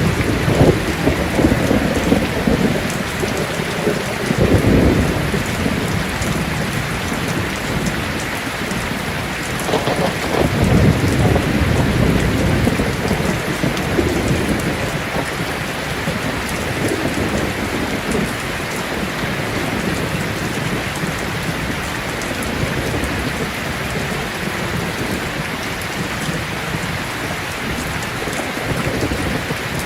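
Heavy rain falling steadily, with thunder rumbling several times in the first half, loudest near the start and around a third of the way in.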